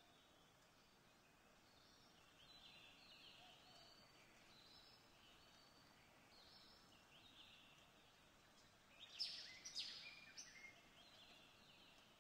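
Faint birdsong, a string of short chirps over a soft background hiss, with a louder flurry of sharp chirps about nine seconds in.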